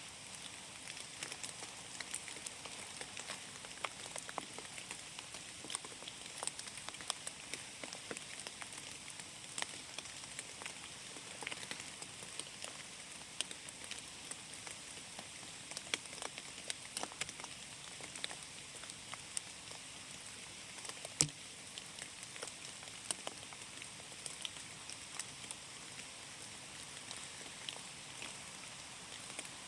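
Rain falling in a forest: a soft steady hiss with many separate drops ticking irregularly, one louder drop about 21 seconds in.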